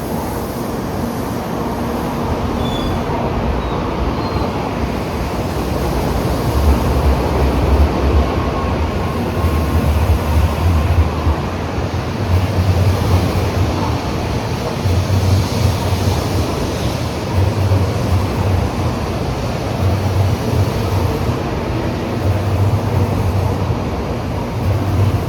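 Shinkansen train moving slowly past the platform: a steady rolling noise, with a low rumble that swells about every two seconds from several seconds in.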